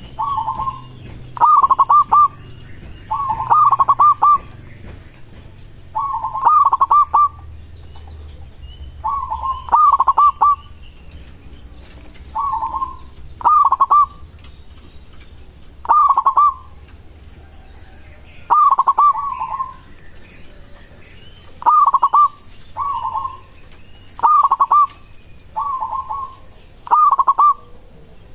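Local perkutut (zebra dove) cooing: short rolling phrases repeat one after another, every second or two at an uneven pace, as a lure call for other perkutut.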